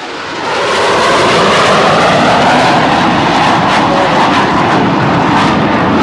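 Blue Angels F/A-18 Hornet jet flying past, its engines making a loud, steady roar that swells up over the first second.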